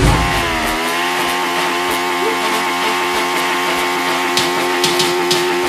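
Motorcycle engine held at high revs, as in a burnout; the pitch sags briefly just after the start, then holds steady and high. A few sharp ticks come near the end.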